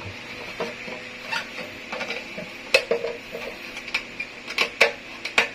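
Irregular clicks and knocks of hard plastic filter housings and fittings of a water purifier being handled and fitted together, with the sharpest taps about three seconds in and near the end.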